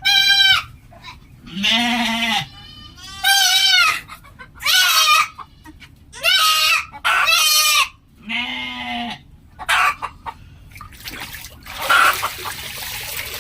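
Goats bleating over and over, about eight quavering calls in quick succession, some higher and some lower-pitched, as the animals are caught and handled for parasite dipping.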